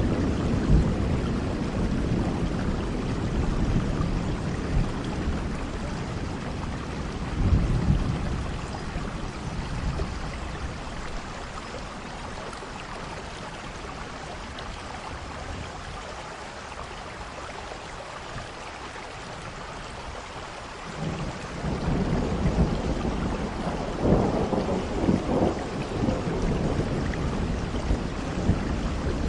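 Steady rain with rolling thunder. A rumble of thunder dies away over the first few seconds, the rain goes on alone for a while, then a new peal starts about two-thirds of the way through and rumbles on to the end.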